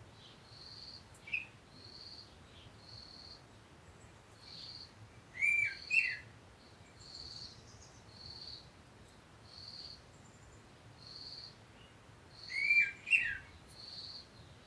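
Birds chirping: a short high note repeats steadily about once a second, and a louder, quickly sweeping call breaks in twice, about five and twelve seconds in.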